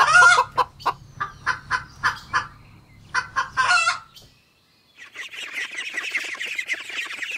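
Domestic hen clucking in a rapid series of short clucks, with a louder squawking cackle at the start and again near four seconds. After a brief silence, a dense, continuous chatter of many birds begins about five seconds in.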